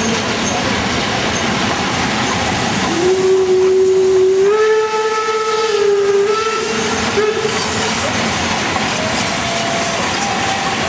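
Steam locomotive whistle blowing one long blast of about four seconds, stepping up in pitch partway through, over the steady hiss of escaping steam. Fainter, shorter whistle notes follow near the end.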